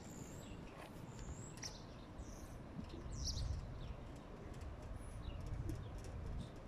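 Small birds chirping, with short high calls scattered through, over a steady low rumble of outdoor ambience.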